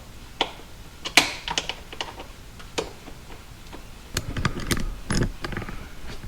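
Irregular light clicks and taps of a hand tool on metal as a T20 Torx screw is worked on the intake, with a busier cluster of clicks and handling knocks about four seconds in.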